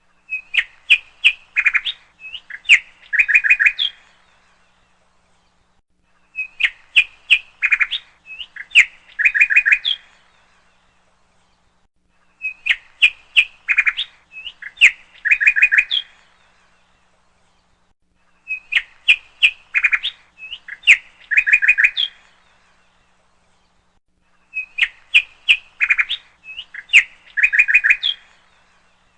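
Bird chirping in a repeated loop: the same burst of quick chirps, about four seconds long, comes back every six seconds, with silence between.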